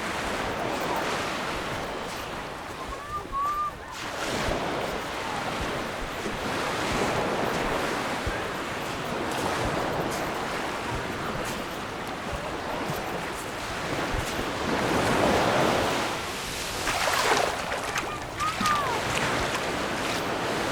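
Mediterranean sea waves breaking and washing up the beach, the surf rising and falling in surges every few seconds. Two brief high chirps cut through, about three seconds in and near the end.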